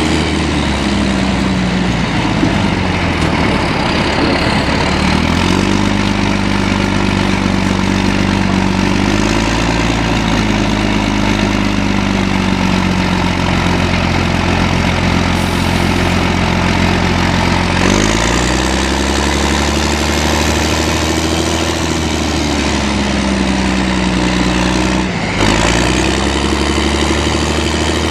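Heavy military vehicle engines running hard as an M113 armoured personnel carrier works to pull a stuck Engesa EE-25 6x6 truck free. The engine pitch rises and falls several times as they rev up under load and ease off, with a brief drop shortly before the end.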